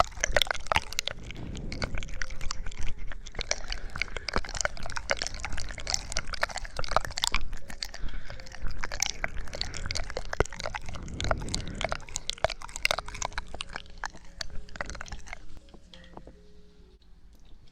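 Close-miked ASMR trigger sounds: dense wet crackling and clicking, which falls away about three-quarters of the way through to quieter sound.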